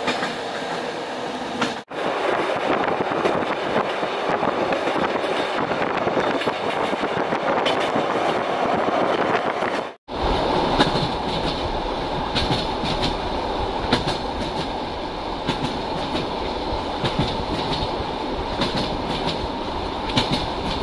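Passenger sleeper train running on the rails: a steady rumble and rush of the moving carriages, with scattered clicks of the wheels over rail joints. It is heard in three stretches, with brief cuts about two and ten seconds in.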